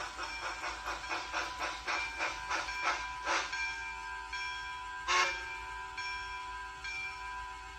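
Steam train chuffing, the beats slowing and stopping after about three and a half seconds, over a steady high tone; a short hiss of steam comes about five seconds in.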